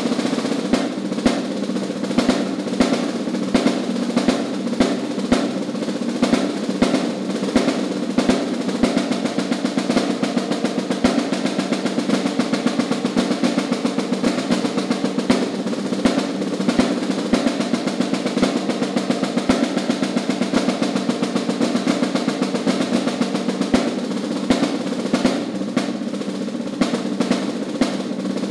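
Solo snare drum played in rolls with sharp accented strokes standing out throughout, the snare buzz continuous beneath them.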